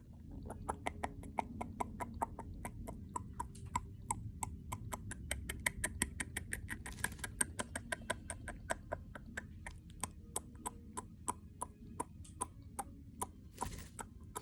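Pet cockatiel pecking and nibbling with its beak: a quick run of small sharp clicks, about four or five a second, with two brief bursts of rustling, one around the middle and one near the end.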